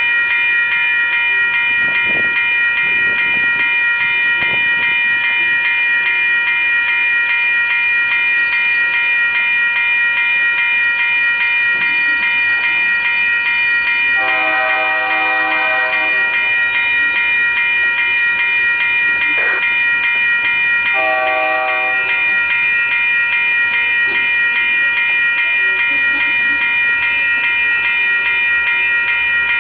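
Freight train of tank cars rolling steadily past, with a steady high-pitched squeal throughout. Two train horn blasts sound about halfway through, the first about two seconds long and the second shorter.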